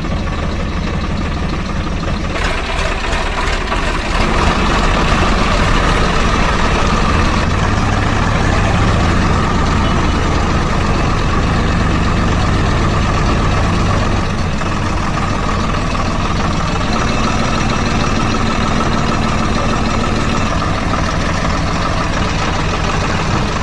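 An engine running steadily at idle, with a deep low rumble throughout.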